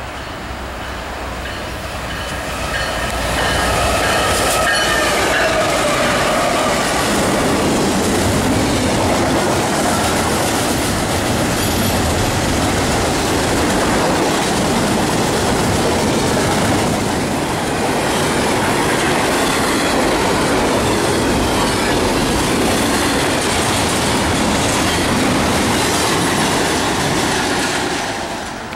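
Freight train rolling past close by: a loud, steady rumble of cars with wheels clacking over the rail joints and some squealing. It builds about three seconds in and drops away near the end.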